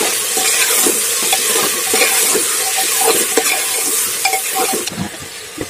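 Chicken pieces sizzling in hot oil in a pressure cooker while a metal ladle stirs and scrapes against the pot, with frequent short knocks. The sizzle drops off near the end.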